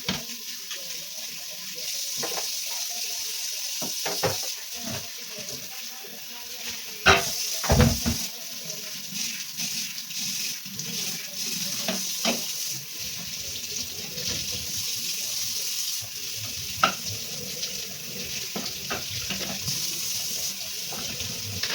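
Tap water running steadily into a sink during washing, with scattered knocks and clatters of things being handled in it; the loudest clunk comes about seven seconds in.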